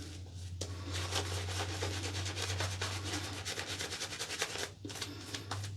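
Synthetic-knot shaving brush working lather against the face: a continuous, dense bristly rubbing full of fine crackles, easing off near the end.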